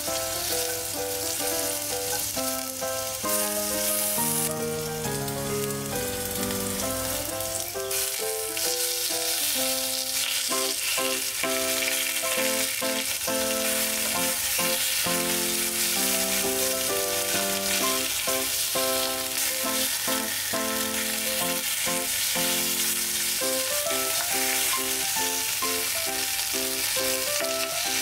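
Hot oil sizzling steadily in a wok as ginger pieces and then chicken wings fry on high heat and are turned with tongs. Light instrumental background music with a bouncy melody plays throughout.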